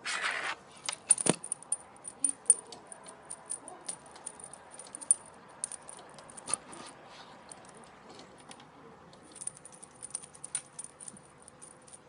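Irregular light metallic jingling and clicking, many small ticks a second at uneven spacing, with a short noisy burst at the very start and a louder click about a second in.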